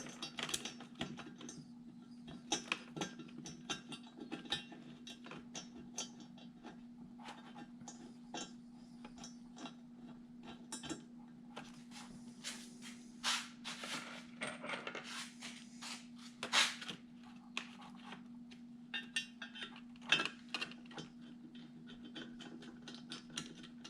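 Scattered metallic clinks and taps as exhaust manifold bolts and the cast manifold are handled and the bolts are started by hand into the cylinder head, over a steady low hum.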